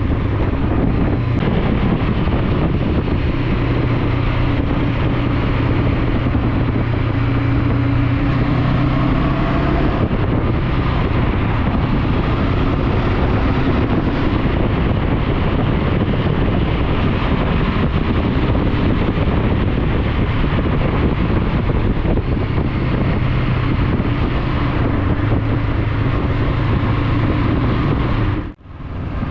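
Motorcycle engine running under way, with wind rushing over the microphone. The engine note shifts a little in pitch as the speed changes. The sound drops out briefly near the end.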